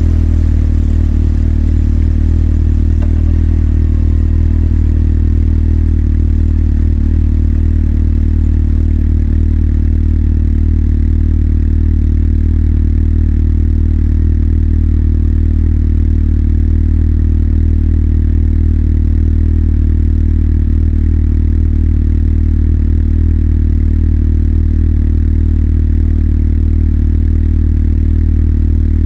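Motorcycle engine idling steadily at a constant low pitch.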